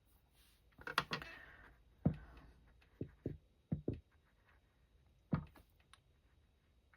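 Several short, light knocks and taps spread irregularly through the quiet, as of a paintbrush and watercolour palette being handled on a table.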